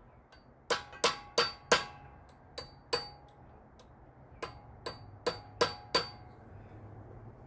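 Hammer taps on metal, about a dozen sharp ringing strikes in uneven clusters, driving a part on the 1965 Thunderbird's transmission into its groove until it seats.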